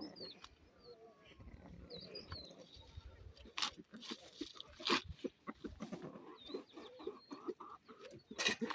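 Small birds chirping now and then, with a few sharp knocks or rustles about three and a half, five and eight and a half seconds in.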